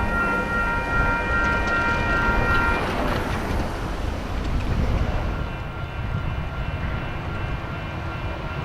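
Locomotive air horn sounding a steady chord that cuts off about three seconds in, over the continuous rumble of a passing train led by a BNSF locomotive with Union Pacific SD70ACEs.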